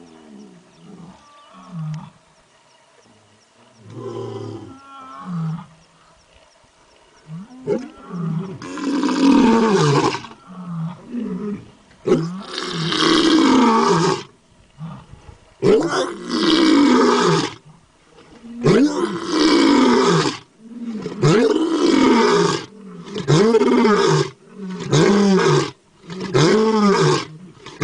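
Tiger roaring. Quieter low grunts come first, then from about nine seconds in a series of long, loud roars. The roars get shorter and come closer together toward the end.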